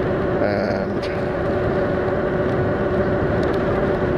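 HappyRun F18 electric motorbike riding at a steady speed: the motor's steady two-tone whine over wind and road noise.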